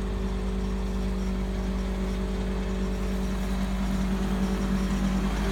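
2012 Ford F450 diesel engine idling steadily, with an even hum.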